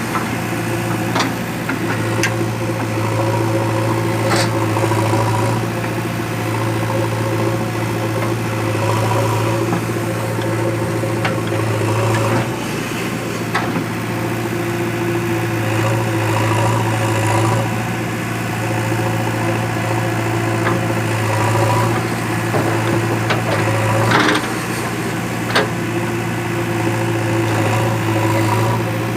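Heavy diesel engine of earth-moving machinery running steadily at a near-constant speed, with a few short sharp knocks or clanks over it.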